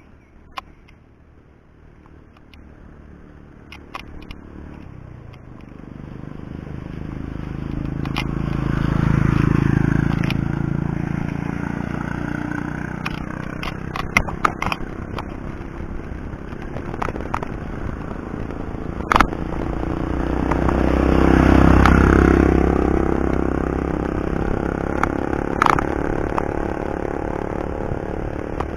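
Motor vehicles passing on the road, their engine noise swelling up and fading twice, loudest about ten seconds in and again about twenty-two seconds in. Scattered sharp clicks and rattles run through it.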